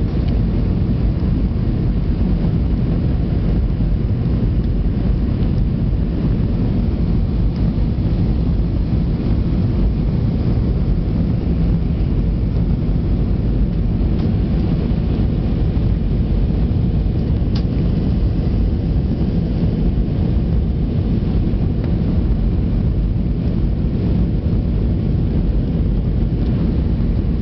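Steady low rumble of cabin noise aboard an Airbus A320-200 airliner: airflow and engine noise heard from inside the passenger cabin.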